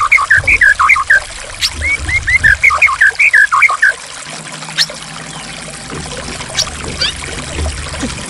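Running water trickling and gurgling steadily, over a bird chirping in two quick runs of short notes during the first half, with a few fainter sharp notes later.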